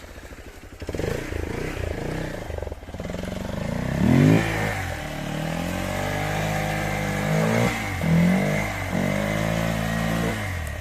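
Hero Xpulse 200 motorcycle's single-cylinder engine revving under load in soft ground. The revs climb steeply about four seconds in, then are held high with a couple of brief dips.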